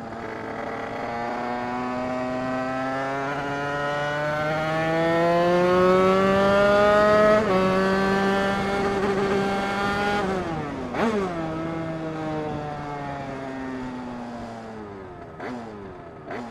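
Two-stroke Derbi moped engine with an 80 cc MHR Team kit and a Bidalot expansion exhaust, under way and accelerating. The revs climb for about seven seconds, dip at a gear change and climb again, then fall sharply about ten seconds in as the throttle closes, with a brief blip, and slowly wind down. The rider thinks the carburetion is two or three points too rich.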